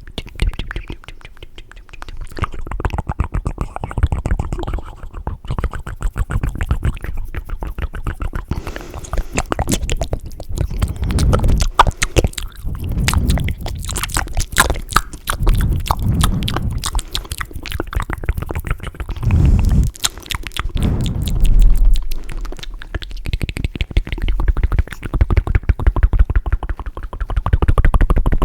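Fast, wet mouth sounds: rapid tongue clicks and tongue fluttering, with deeper gulping surges now and then.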